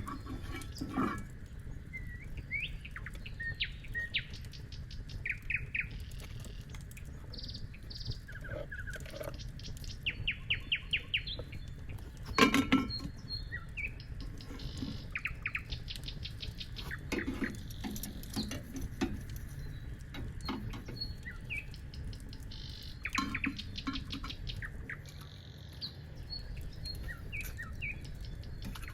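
Wild birds chirping, in quick series of short high notes, over a low steady rumble. A sharp knock sounds about twelve seconds in.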